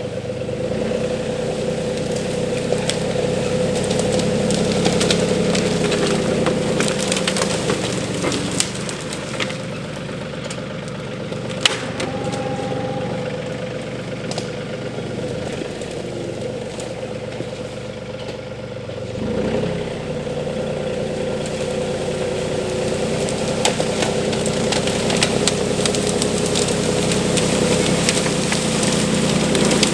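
RK 37 compact tractor engine running steadily while brush and limbs are handled, with scattered sharp cracks of wood snapping; the engine pitch shifts about two-thirds of the way through.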